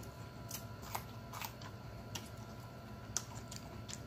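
Person chewing a mouthful of food with the mouth closed: soft, scattered wet clicks and smacks, roughly one or two a second, over a faint steady hum.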